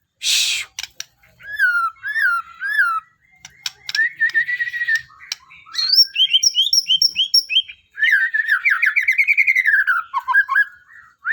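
White-rumped shama (murai batu) singing a varied song of whistled glides, quick repeated notes and trills, opening with a short harsh rasping note.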